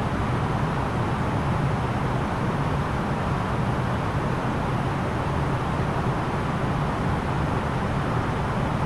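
Steady cabin noise of an Airbus A330-900neo airliner in descent: a constant rush of airflow and engine noise, heaviest in a low hum, with no change in level.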